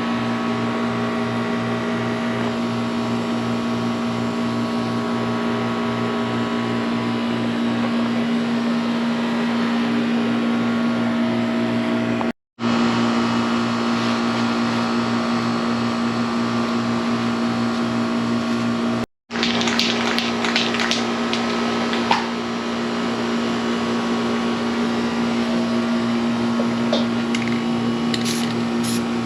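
Motor-driven paint-spraying equipment running with a steady hum and a fast, even pulsing. Short hissing bursts of spray come in about twenty seconds in and again near the end, and the sound breaks off briefly twice.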